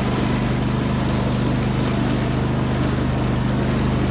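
Craftsman GT5000 riding lawn tractor's engine running steadily, a low, even hum.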